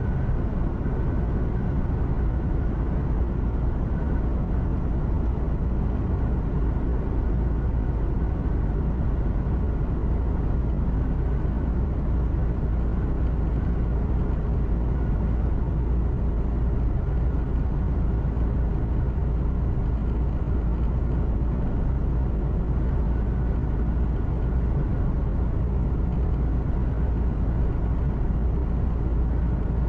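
Truck engine and tyre noise heard inside the cab while cruising: a steady low rumble with an even road hiss over it.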